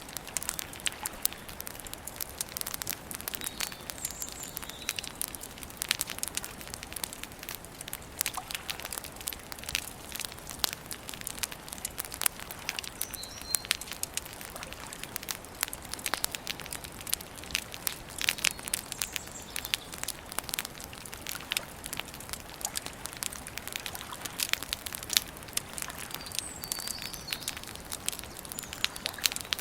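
Wood campfire crackling and popping with many irregular sharp snaps. A few short, faint bird chirps come through now and then.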